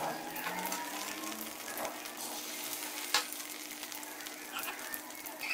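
Egg-dipped shami kebabs sizzling in shallow oil on a flat iron tawa, a steady hiss with one sharp click about three seconds in.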